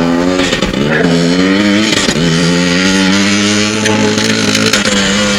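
Stunt motorcycle accelerating up through the gears. The engine note climbs and drops back at each of three shifts in the first two seconds, then holds a steady, fairly high note.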